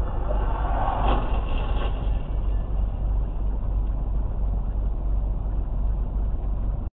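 Steady low rumble of a car's engine and road noise heard from inside the vehicle on a dashcam, with a louder rough noise about a second in; the sound cuts off suddenly near the end.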